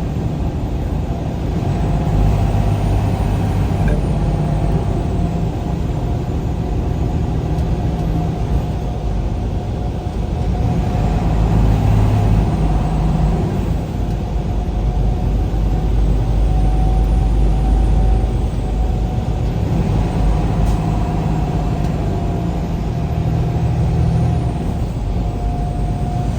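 Vehicle driving at speed: steady engine and road rumble with a thin whine that wavers slightly in pitch.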